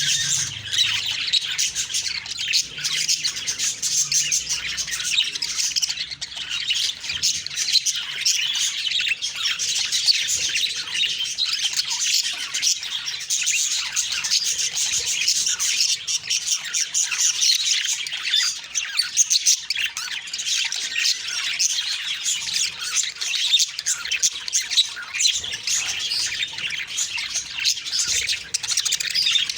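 Budgerigars chirping and chattering without a break, many short calls overlapping.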